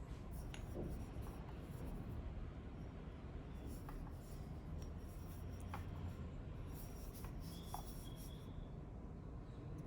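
Faint rubbing and scraping of objects being handled, with a few small clicks, over a steady low hum.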